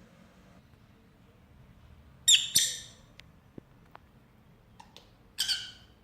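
Pet lovebird giving two short, harsh squawks, one a little over two seconds in and one near the end, with a few faint ticks between them.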